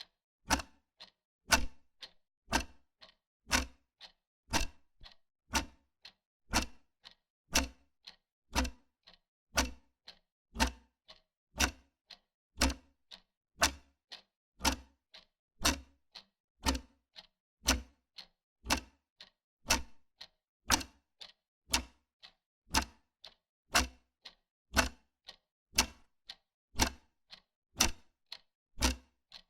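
Wall clock ticking steadily: a strong tick about once a second, each followed by a softer tock.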